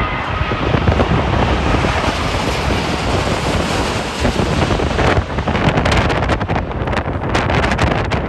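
Strong gusty wind buffeting the microphone, a loud rumbling rush that turns to rapid irregular fluttering about five seconds in.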